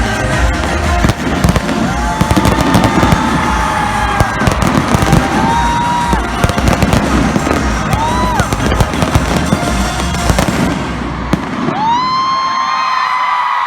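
Stadium fireworks crackling and banging over loud concert music, with a crowd shrieking. About eleven seconds in the music's bass drops out, leaving the crackle and a long rising scream.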